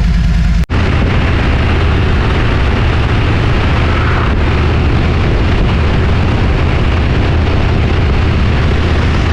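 Motorcycle engine running steadily while riding at road speed, with loud wind rush over the microphone. A cut just under a second in replaces a quieter idling engine.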